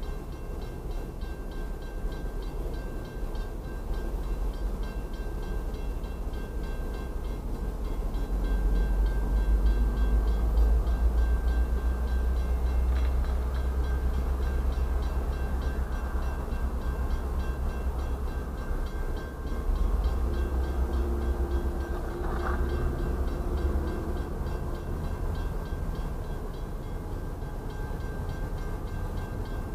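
Diesel freight train rumbling at a grade crossing, the low rumble growing louder about a third of the way in and holding steady, heard from inside a stopped car. The crossing signal's bell rings faintly above it.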